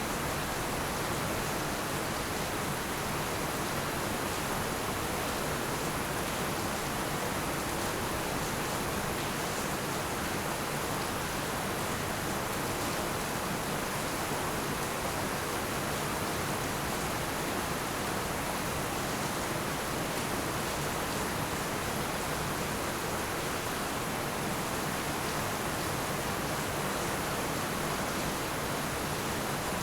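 Heavy rain falling as a steady, even hiss with no separate drops or thunder standing out.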